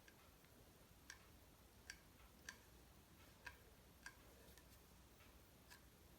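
Near silence with about six faint, sharp clicks at uneven intervals.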